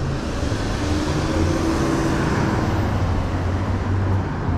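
Wind rumble on the camera microphone and road noise while riding a bicycle, with traffic noise behind it.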